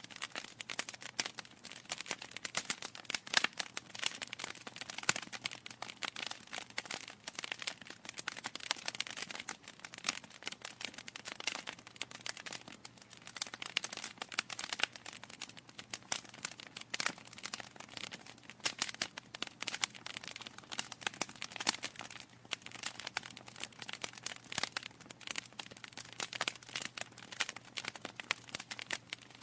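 Wood fire crackling: a dense, irregular stream of small snaps and pops from burning logs, with a few sharper, louder pops standing out.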